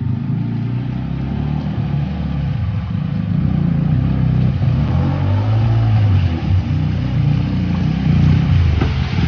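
A motor vehicle's engine running close to the microphone, its pitch wandering up and down as it moves.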